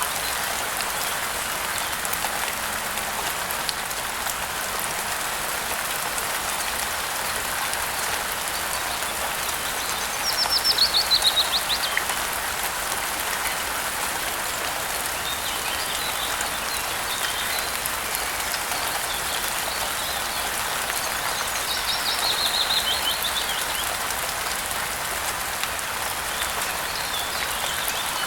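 Steady rain falling. A songbird sings a rapid, descending trill twice, about ten seconds in and again about twenty-two seconds in, the loudest moments above the rain.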